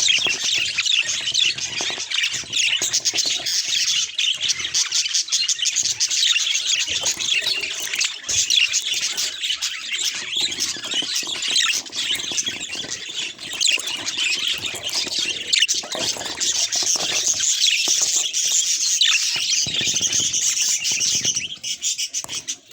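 Budgies chattering and warbling nonstop: a dense stream of quick high chirps, squawks and trills from several birds at once, fading out near the end.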